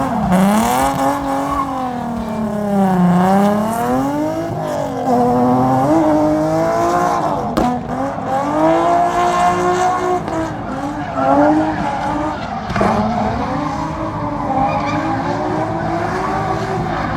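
Drift car's engine revving up and down over and over, with tyres squealing and skidding as the car slides through a drift run.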